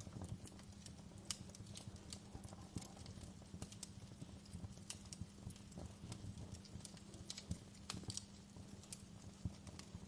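Fire burning in a fireplace, crackling with sharp, irregular pops, several a second, over a low steady hum.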